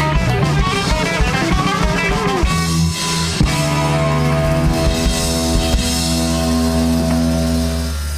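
Live rock band playing instrumentally on two electric guitars, bass guitar and drum kit. Busy guitar lines and drumming give way about two and a half seconds in to long held, ringing chords over a sustained bass note, which stop near the end.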